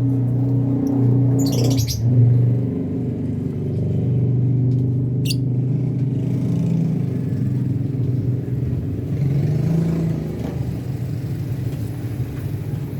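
A steady low mechanical rumble, like a nearby engine running, with a short high lovebird chirp about one and a half seconds in and a sharp click around five seconds in.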